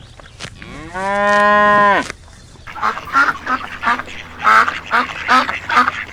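A cow mooing once, a single drawn-out call of about a second that rises and then drops at the end. From about three seconds in, waterfowl call in a fast run of short quacks or honks, about three a second.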